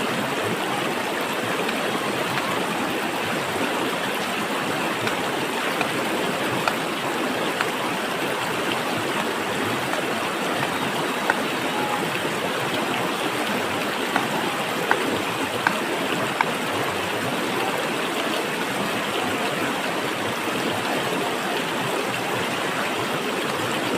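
Steady rush of flowing stream water, with a few brief ticks scattered through the middle.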